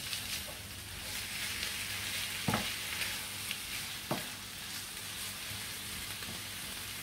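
Chicken breast pieces sizzling as they are seared in a frying pan and stirred with a wooden spoon. The spoon knocks sharply against the pan twice, about two and a half and four seconds in.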